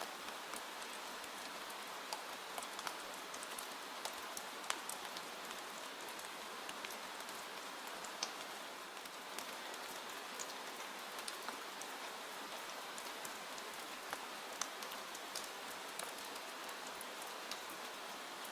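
Steady rain, an even hiss with many individual drops ticking sharply through it.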